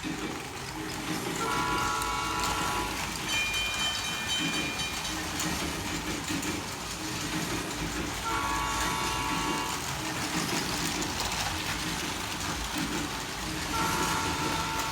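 Train running along the track while a multi-tone horn sounds four times, each blast a second or so long.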